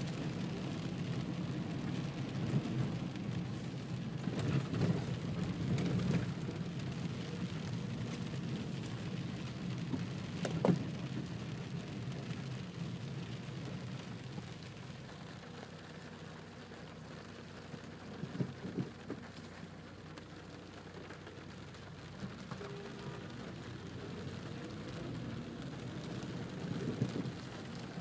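Rain falling on a car's roof and windshield, heard from inside the cabin, over a low steady rumble. A few sharp knocks stand out, and the rain noise eases off somewhat midway.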